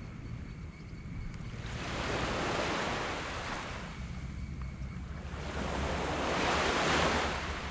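Small tropical waves washing onto a sand beach: two swells of surf, one peaking about two and a half seconds in and a louder one about seven seconds in. A steady low rumble runs underneath.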